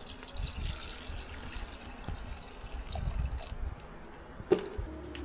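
Water running, with small irregular clicks and one sharp knock about four and a half seconds in.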